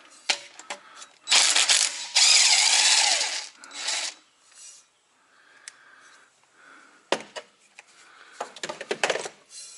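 Ratchet wrench loosening the bolts on a semi truck's AC compressor line fittings: two loud rasping runs of ratcheting early on, then scattered clicks and taps of tools and metal parts.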